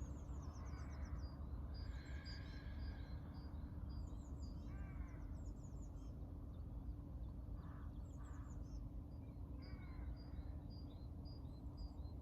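Several birds singing: repeated runs of quick, high chirping notes, with a few lower calls mixed in, over a steady low hum.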